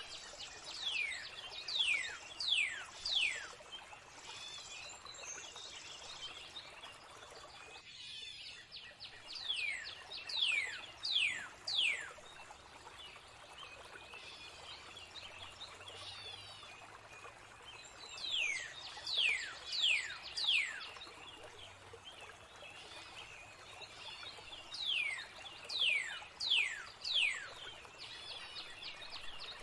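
Songbird repeating a phrase of four or five clear whistled notes, each sliding down steeply in pitch, about every seven to eight seconds, over softer chirping from other birds and a steady hiss of flowing water.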